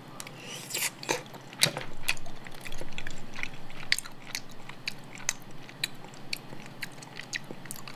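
Chewing a mouthful of raw honeycomb, with many short mouth clicks and smacks at irregular intervals.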